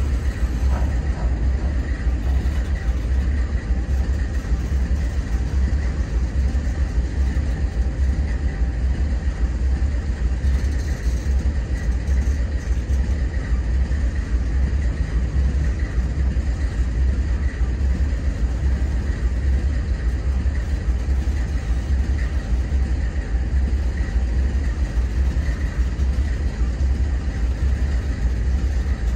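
Intermodal freight train's spine and flat cars rolling past close by: a steady, loud rumble of steel wheels on the rails.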